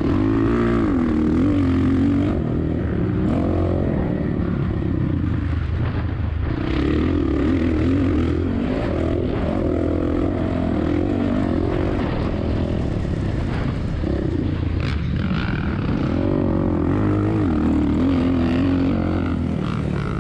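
2007 Suzuki RM-Z450 four-stroke single-cylinder dirt bike engine being ridden hard, its pitch rising and falling again and again as the throttle is worked, over a steady rush of wind and track noise.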